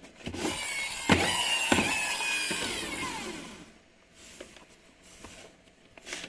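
Small electric motor of a remote-control car whirring with a whine that rises and falls in pitch for about three and a half seconds, with two sharp knocks partway through; a few light clicks follow.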